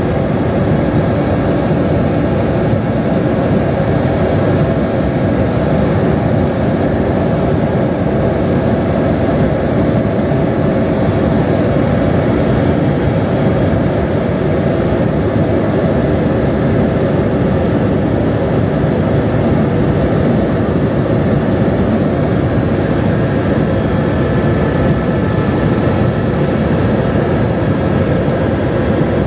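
Helicopter in flight: steady, loud engine and rotor noise.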